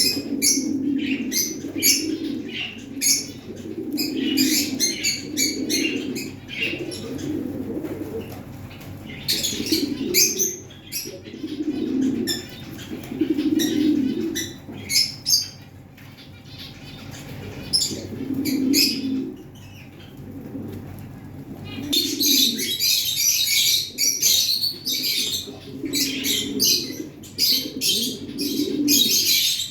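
Pigeons cooing over and over, with wings flapping and small birds chirping; the chirping becomes dense and continuous in the last quarter.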